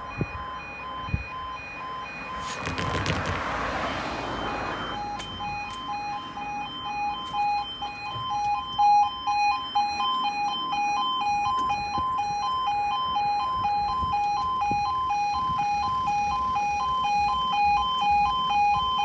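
Level crossing warning alarm sounding its two-tone yodel, a steady alternating high-low note that repeats evenly. A rush of passing noise swells and fades in the first few seconds.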